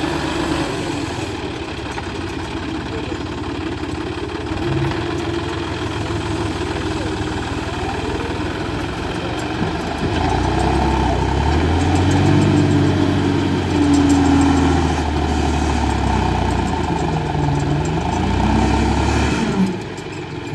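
Tractor engine running under load as the tractor's front loader works. About halfway through, the engine grows louder and revs up and down several times.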